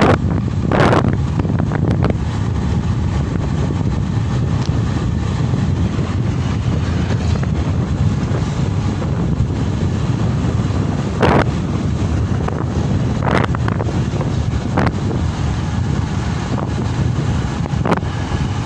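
Wind buffeting the microphone on a moving motorcycle, over a steady low rumble, with a few sharper gusts: one about a second in and several more in the second half.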